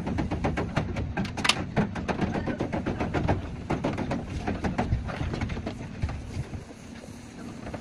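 Rapid, even tapping, about eight taps a second, typical of a panel-beating hammer working a car body panel; it thins out and weakens after about six seconds.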